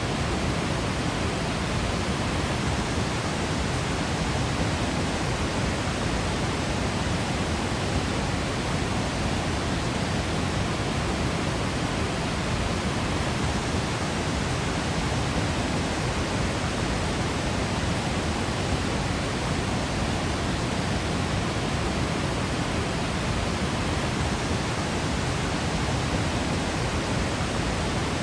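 Waterfall rushing steadily, an even, unbroken hiss with no changes.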